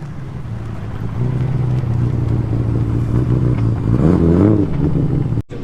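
A car engine running steadily, then revving up about four seconds in, its pitch rising before it eases back.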